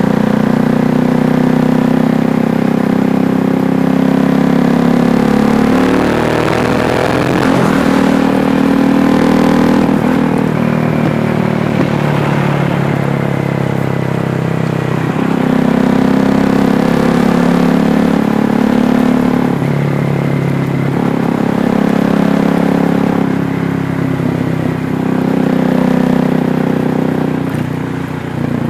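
KTM 390 Duke's single-cylinder engine running under way, holding steady revs for stretches. Its pitch slides down and back up about seven seconds in, and the engine eases off and picks up again a few more times as the throttle and gears change.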